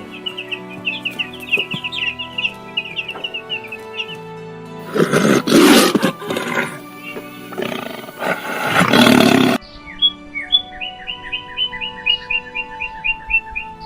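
A big cat roars twice, about five and eight seconds in, each roar lasting a second or two. Small birds chirp in quick trills before and after the roars, over steady background music.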